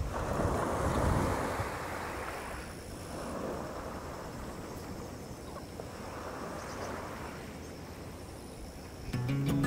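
Sea waves washing onto the shore, a rushing noise that swells and ebbs several times, with some wind. Music comes in near the end.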